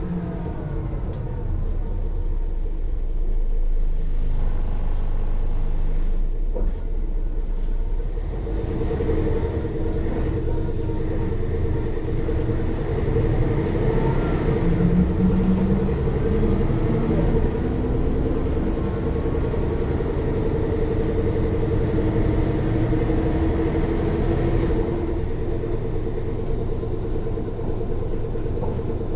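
Mercedes-Benz O 405 N1 city bus under way, heard from inside near the rear axle: the loud diesel engine runs over a clear whine from the rear axle drive, with the automatic gearbox faint beneath. The pitch falls over the first two seconds, stays low for a few seconds, then rises again about eight seconds in and holds steady.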